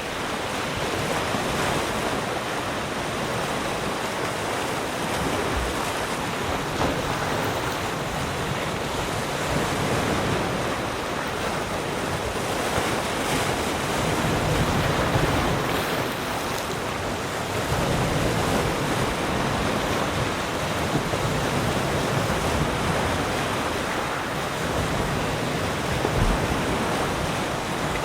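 Ocean surf: a continuous wash of waves on a shore that swells and eases gently every few seconds.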